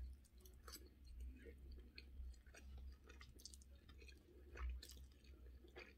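Faint chewing of crispy pan-fried spaghetti, with a few soft mouth clicks.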